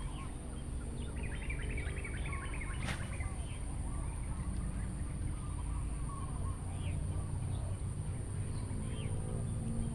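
Small birds chirping: a quick run of chirps about a second in, then scattered calls, over a steady high whine and a low rumble. A single sharp click about three seconds in.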